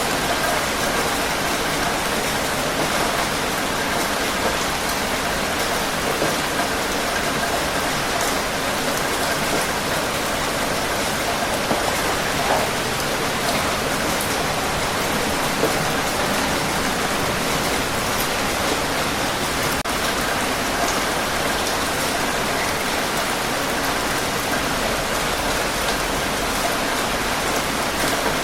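Steady rain falling on a surface, an even hiss with occasional single drops ticking through.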